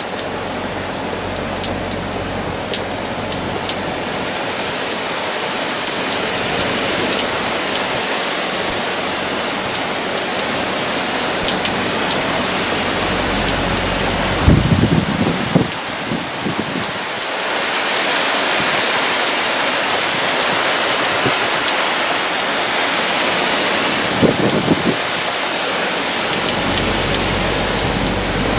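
Heavy hurricane rain pouring steadily with tropical-storm wind, growing heavier a little over halfway through. Two brief low rumbles stand out, one about halfway and one near the end.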